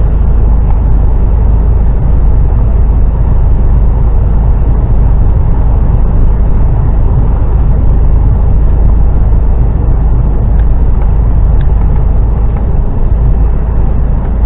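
HGV lorry's diesel engine and road noise, a steady loud low rumble as the truck pulls up a hill.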